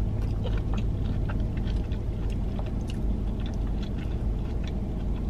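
Close-up chewing of a fried mac and cheese bite, with many small wet mouth clicks, over a steady low hum.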